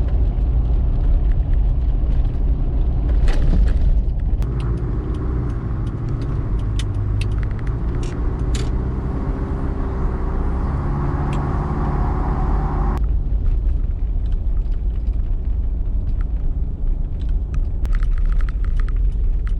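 Car driving, heard from inside the cabin: a steady low road-and-engine rumble, with a higher engine drone added between about four and thirteen seconds in and a few faint clicks.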